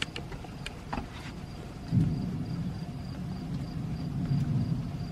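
Thunder: a low rumble sets in suddenly about two seconds in and keeps rolling, with a few faint clicks before it.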